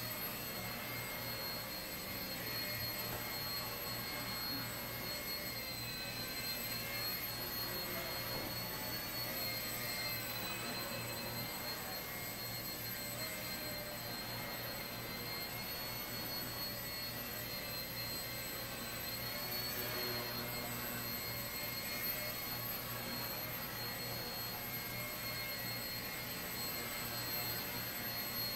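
Blade 70S micro RC helicopter in flight: a steady high-pitched whine from its small electric motors and spinning rotors, wavering slightly in pitch as the throttle changes.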